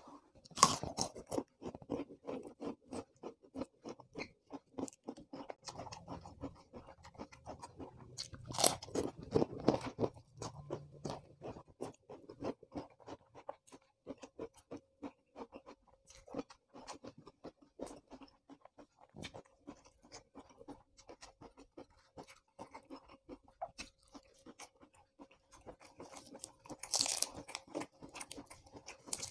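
Close-up chewing and crunching of raw vegetables dipped in sambal: a dense run of crisp clicks, with loud crunching bites about a second in and about nine seconds in. Near the end, a brief crisp tearing of a raw lettuce leaf.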